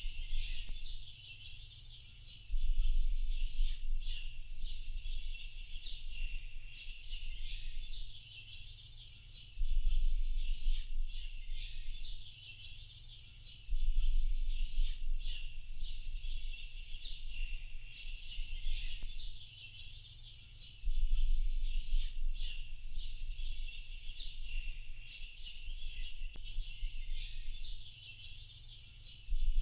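Dense chorus of many small birds chirping and twittering continuously in high, overlapping calls. Under it a deep rumble swells up and falls back every five to seven seconds.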